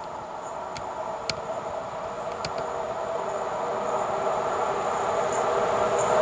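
PKP class EP09 electric locomotive hauling an express passenger train, approaching and growing steadily louder as a steady rail hum, with a few sharp clicks.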